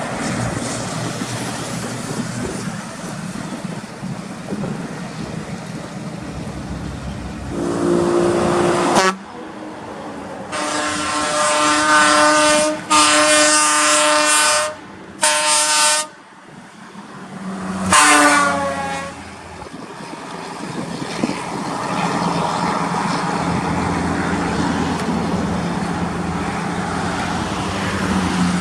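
Heavy truck engines running, with several blasts of truck air horns in the middle, a few of them cutting off suddenly.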